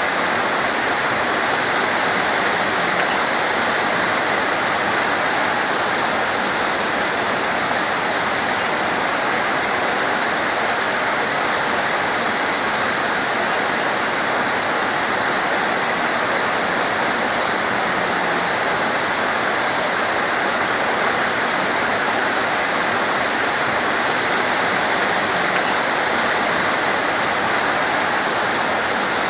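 Heavy torrential rain falling steadily: a dense, even hiss with no let-up. One brief tick about halfway through.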